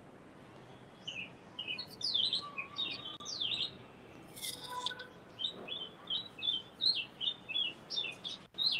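Small birds chirping: scattered quick high calls from about a second in, turning into a run of short repeated chirps, several a second, in the second half.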